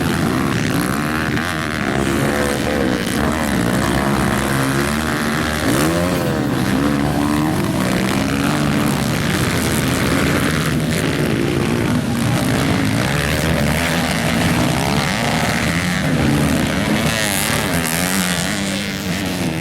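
Several motocross bike engines revving and shifting as they race, many overlapping pitches rising and falling over each other.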